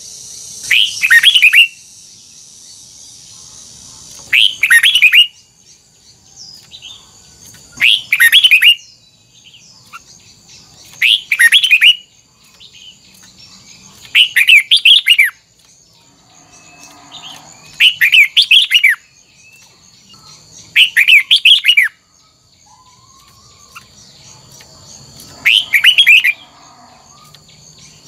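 Red-whiskered bulbul singing short, loud warbled phrases, one about every three to four seconds. A faint steady high whine runs underneath.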